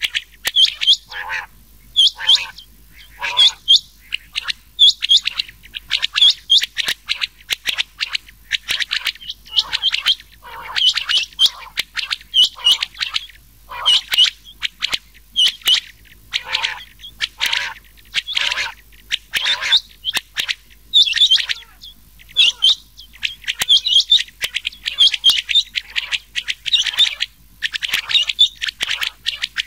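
Rain quail and common quail calls mixed in a hunting lure recording: sharp, high calls repeat about once a second, some trailing off into a lower falling note.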